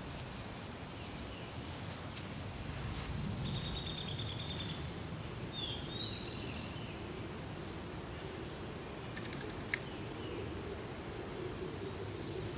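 Wild birds calling. The loudest is a high, buzzy, rapidly pulsed trill lasting over a second, a few seconds in. A short slurred chirp and a quick run of faint ticks follow, over steady low outdoor background noise.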